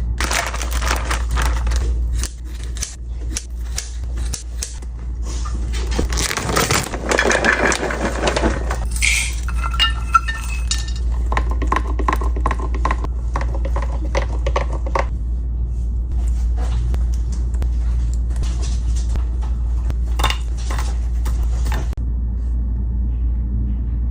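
Dishes and utensils clattering and scraping in a kitchen, off and on, over a steady low hum.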